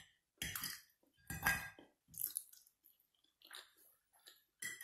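A person chewing a mouthful of soft macaroni and cheese close to the microphone: a handful of short chewing sounds, roughly one a second.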